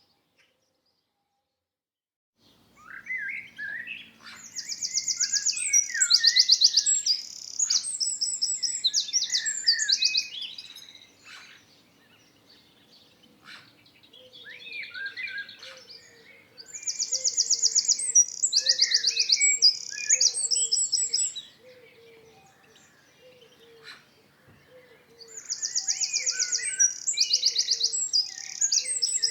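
A songbird singing three long phrases of varied chirps and fast, high trills, with short pauses between them; it starts after about two seconds of near silence.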